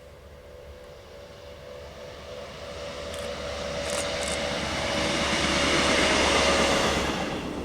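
A train approaching, its rushing noise growing steadily louder for several seconds and then falling away sharply near the end.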